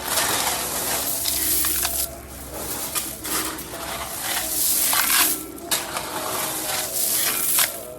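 Number 57 crushed stone being spread: gravel scraping and crunching in repeated strokes with short pauses between them.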